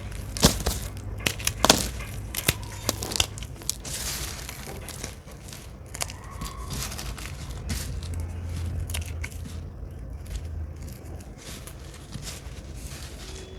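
Dry, microwave-puffed soap being crushed, giving crisp crackling and crunching with a few sharp snaps in the first two seconds.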